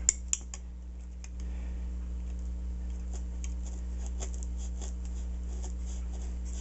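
Snap-off utility knife blade cutting into foam: a run of faint scratching ticks, after two sharp clicks right at the start. A steady low hum runs underneath.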